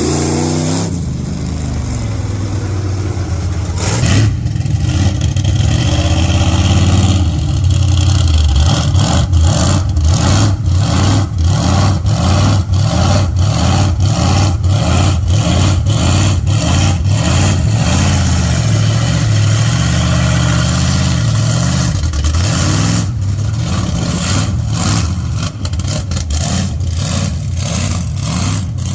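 Mega mud truck's engine running loud and revving up and down as the truck drives across the wet ground, with frequent short thumps or knocks over it.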